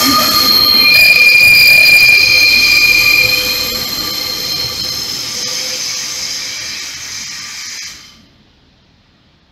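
Class 144 Pacer diesel railbus running past at close range, its wheels squealing on the curved track with several steady high-pitched tones over the rumble. The sound is loudest in the first three seconds, fades as the unit draws away, and drops off sharply about eight seconds in.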